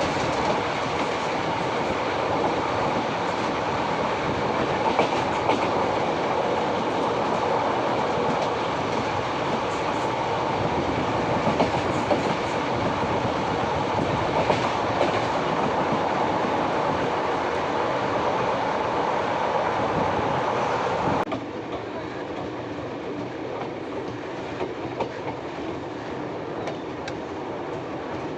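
Saryu Yamuna Express passenger train running, its wheels clattering over the rail joints with a dense, steady rattle. About 21 seconds in, the noise drops suddenly to a quieter, steady rumble.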